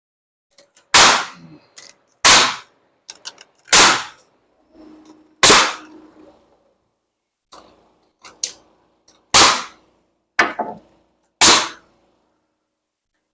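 Pneumatic framing nailer firing seven times into wood studs, one to two seconds apart with a longer pause in the middle, each sharp shot followed by a brief ring from the framing.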